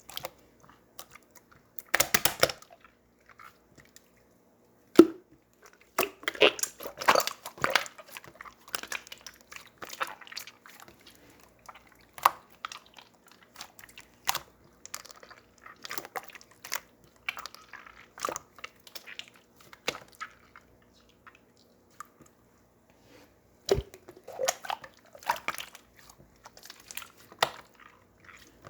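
Close-miked chewing and crunching: irregular wet mouth clicks and short crunchy bites, with louder bursts about two seconds in, around five to eight seconds, and again near the end.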